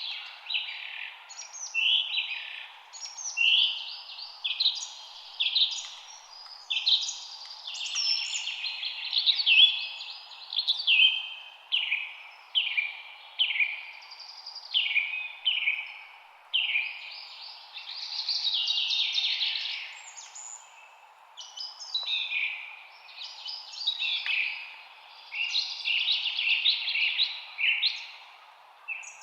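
Songbirds chirping and singing in a spring evening chorus, with short phrases following one another without a break over a faint steady background hiss.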